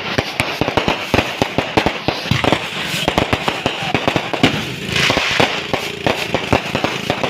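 Fireworks going off in rapid succession: a dense run of sharp cracks and pops, several a second, with bursts of hissing crackle.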